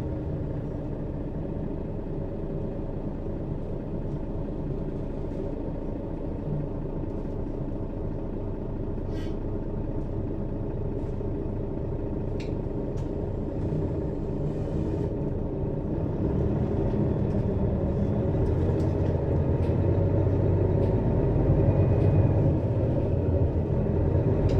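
Mercedes-Benz Citaro city bus engine running under way, heard from above the rear engine, a steady low rumble that grows louder over the second half. There are a few faint clicks or rattles near the middle.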